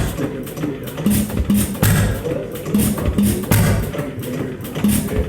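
Erie stationary gas engine running, firing with a loud beat roughly once a second at uneven spacing.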